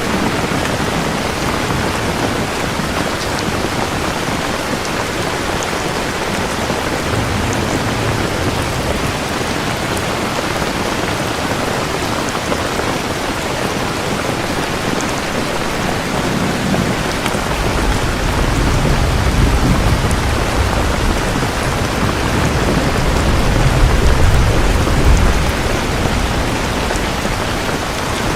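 Steady heavy rain falling, with a long low roll of thunder that builds from a little past the middle, is loudest near the end and then fades.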